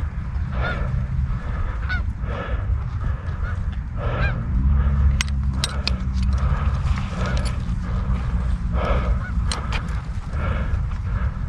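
Geese honking: a run of short, repeated honks a fraction of a second apart, over a steady low rumble, with a few sharp clicks around the middle.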